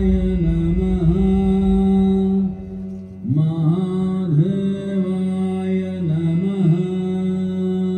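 Chanting of a mantra over music: a held, pitched voice sings a long phrase with bending notes, breaks off about two and a half seconds in, then takes up a second long phrase.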